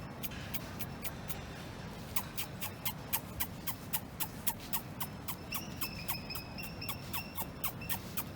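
Birds calling: a quick run of short, sharp clicking calls, about three or four a second, each with a brief falling chirp. From a little past halfway, a higher, thin two-note whistled call repeats in short bursts over them.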